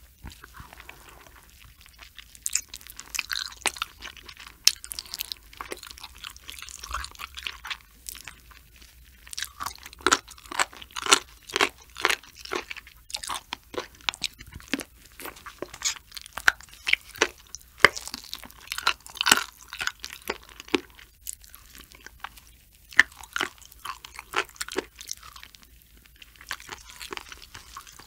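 Close-miked chewing of raw sturgeon sashimi: a run of sharp, crisp crunches and wet mouth clicks that come in bursts with short pauses between them.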